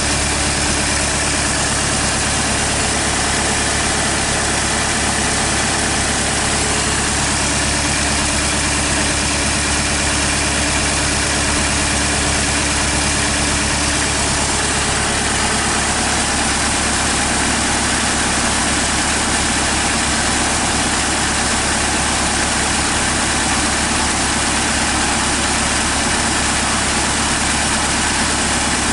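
Hyundai D4CB 2.5-litre four-cylinder common-rail diesel idling steadily, bench-run out of the vehicle for an oil pressure check. There is a slight change in its note about halfway through.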